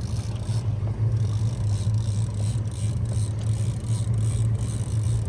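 Motorboat engine running steadily, a low, even hum.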